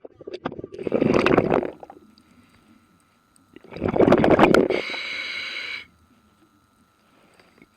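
Scuba diver breathing through a regulator underwater: two gurgling bursts of exhaled bubbles a few seconds apart, the second followed by a hissing inhale of about a second.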